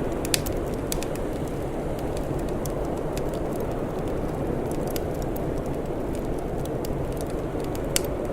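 Wood fire crackling, with scattered sharp snaps and two louder pops, one just after the start and one near the end, over a steady low rushing noise.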